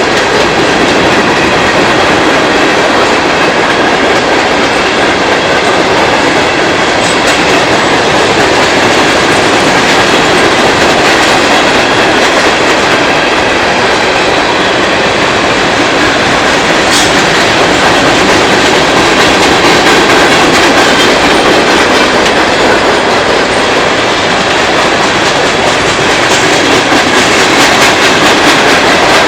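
Norfolk Southern freight train of steel-coil cars rolling past, a loud, steady noise of wheels running on the rails, with a few single clicks.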